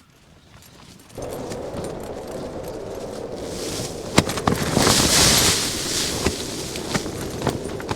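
Gale-force wind buffeting a Hilleberg Akto tent, the fabric flapping and snapping in rapid cracks. It starts suddenly about a second in, and a strong hissing gust surges through the middle.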